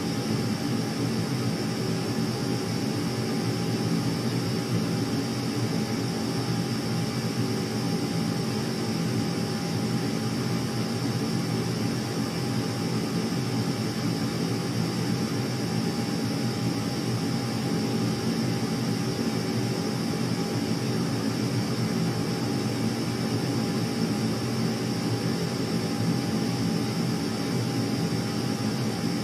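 A steady engine drone with a constant high whine, unchanging throughout.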